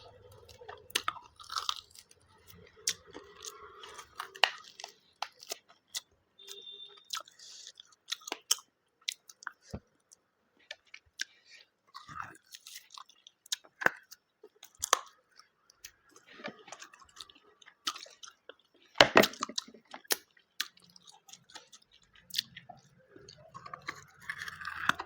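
A person chewing food close to the microphone, with irregular wet mouth clicks and smacks and occasional crunches, the loudest about 19 seconds in.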